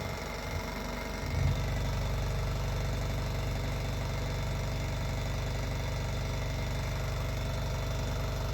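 Stirling engine driving a small generator, running steadily with a fast, even mechanical rhythm. A brief knock comes about a second and a half in, after which the low running noise is louder and steadier.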